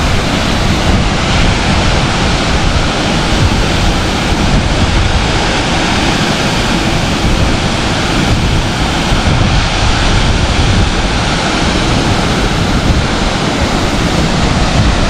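Marmala waterfall in full monsoon flow: a loud, steady rush of falling water.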